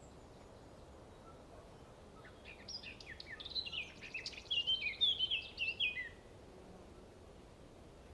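A small bird singing a quick run of chirping, sweeping notes for about three and a half seconds, starting a couple of seconds in, over faint steady background hiss.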